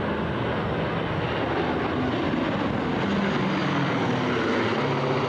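Boeing B-17 Flying Fortress in flight, its four Wright Cyclone radial piston engines running steadily.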